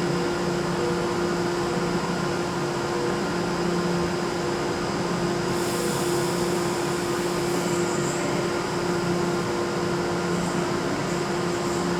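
Steady mechanical hum and drone of trains standing at the platforms of a large covered station, with a constant low tone running through it.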